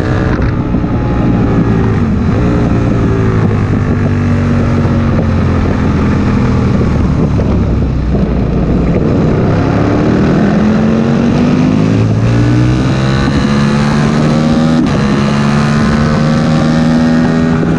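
Aprilia Tuono 1000R's V-twin engine running hard on track, its pitch dropping early on, then climbing again about ten seconds in and holding high, with wind rushing over the microphone.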